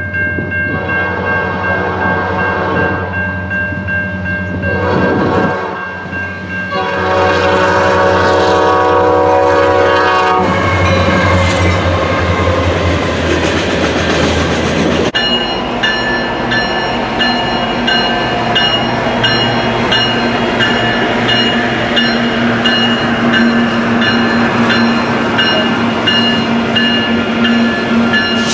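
Locomotive air horn sounding two long blasts, a brief break between them about five seconds in, then a train rolling past. About halfway through the sound changes abruptly to passing rail cars with steady high-pitched ringing tones over the rumble.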